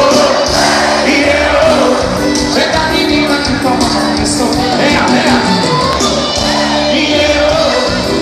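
Live axé band music playing loudly, with singing and a crowd shouting along.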